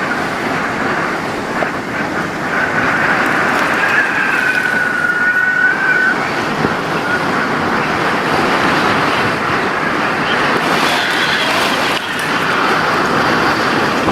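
Storm wind and heavy rain making a steady rushing noise, with a faint wavering whistle for a few seconds about a third of the way in.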